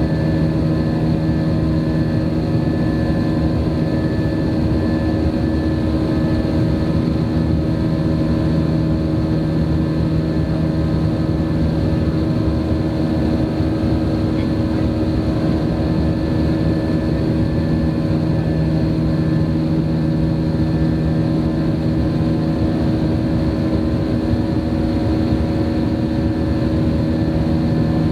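Airbus airliner's jet engines and airflow heard from inside the passenger cabin: a steady, loud drone with several steady hum tones over it, unchanging throughout.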